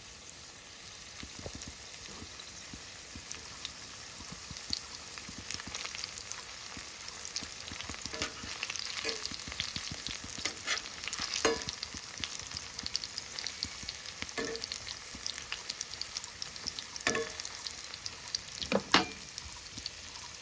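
Momos frying in a pan, a steady sizzle and crackle, with a spatula striking and scraping the pan now and then as they are stirred; the strikes are louder and more frequent in the second half.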